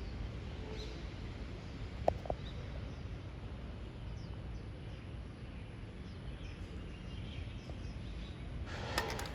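Outdoor ambience: a steady low rumble of wind or distant noise with faint, scattered bird chirps, a single sharp click about two seconds in and a brief scuffing noise near the end.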